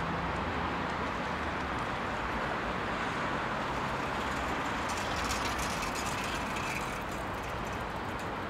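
Passenger train approaching in the distance on an electrified line: a steady rumble with a low hum, holding level throughout.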